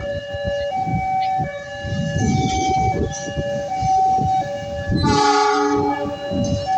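Railway level-crossing alarm sounding two alternating tones, with a train rumbling past. About five seconds in, a train horn sounds for just over a second.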